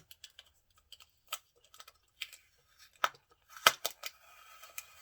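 Packaging of a body powder set being handled and opened: scattered small clicks and taps, a few sharper clicks about three seconds in, then a short stretch of rustling and scraping.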